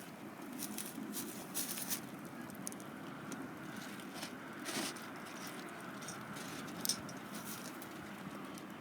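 Wood fire burning, with irregular sharp crackles and pops over a steady low hiss; one sharper pop near seven seconds in.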